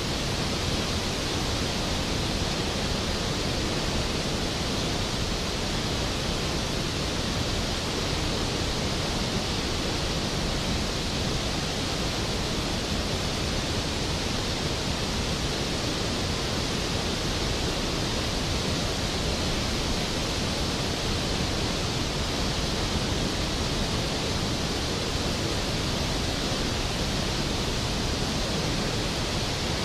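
Skógafoss waterfall, a large waterfall plunging onto rocks and pool: a steady, unbroken rush of falling water.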